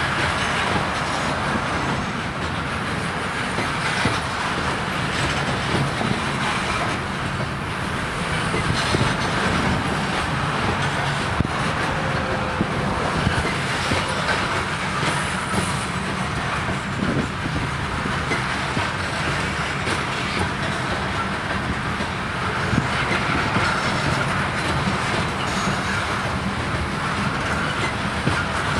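Freight cars of a loaded grain train rolling steadily past, their wheels clicking over the rail joints.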